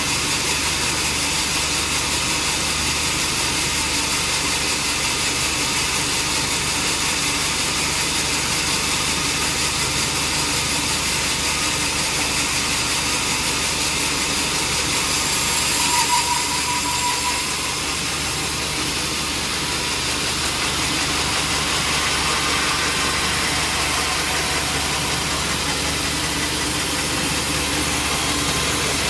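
Sawmill machinery running steadily, a continuous engine-like hum under a high hiss. A short higher-pitched whine comes in briefly about halfway through.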